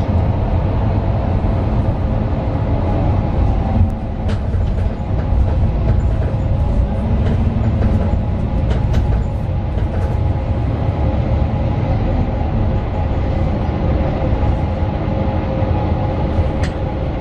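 Mercedes-Benz Citaro 2 city bus heard from inside while driving: its OM 936 six-cylinder diesel and ZF Ecolife automatic gearbox running with a steady low rumble and a steady whine. A few sharp clicks or rattles come through, one about four seconds in and one near the end.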